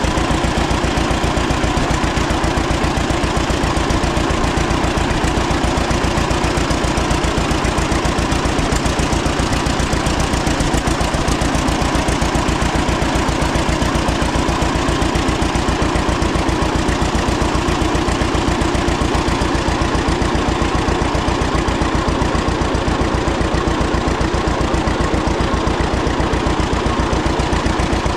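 1936 John Deere Model A's two-cylinder engine running steadily after its hand cold start, its exhaust beating in an even, unbroken rhythm.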